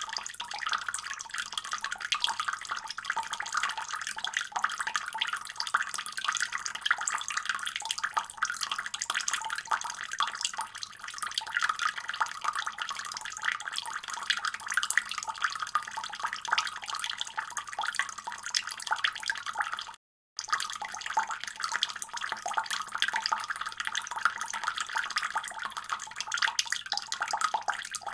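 Water running steadily from a faucet and splashing into a basin. It cuts out completely for a split second about two-thirds of the way through, then resumes unchanged.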